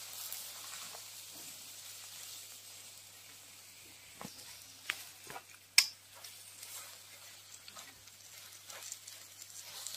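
Sabung leaves and egg sizzling as they are stir-fried in a wok, with a wooden spatula scraping and clicking against the pan. A sharp click a little past the middle is the loudest sound.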